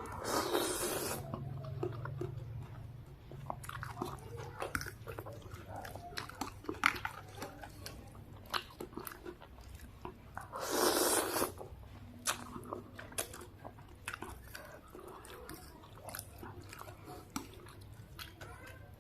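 Close-miked eating of noodle soup with raw bird's eye chillies: steady chewing and crunchy bites. Two louder noisy swells about a second long, one at the start and one about eleven seconds in, are slurps of noodles.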